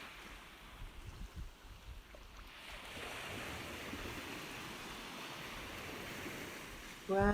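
Ocean surf washing: a soft, even rush that swells about three seconds in and then holds steady.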